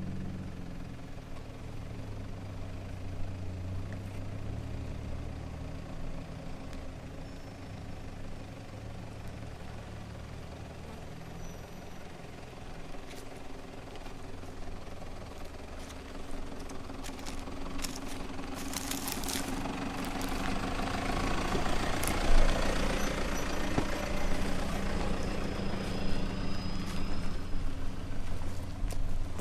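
Four-wheel-drive's engine running low and steady while driving a forest track. Over the second half a rushing noise builds and grows louder, with a quick cluster of sharp clicks or scrapes just after the middle.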